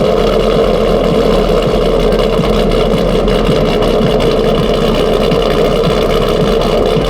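A vehicle engine running loud and steady, without revving.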